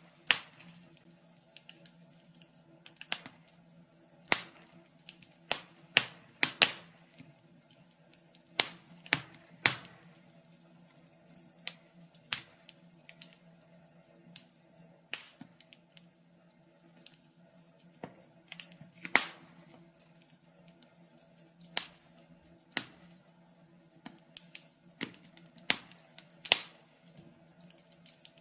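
Wood fire in a fireplace crackling: burning logs give off irregular sharp pops and snaps, some much louder than others, over a faint steady hum.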